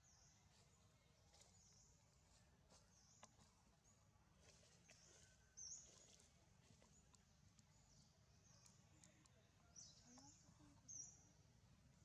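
Near silence: faint outdoor ambience of small high bird chirps repeating every second or so, with two louder chirps about halfway through and near the end, over a low steady rumble.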